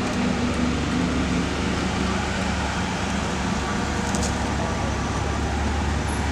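A car engine running steadily, with a low steady tone in the first few seconds, under a constant haze of outdoor noise.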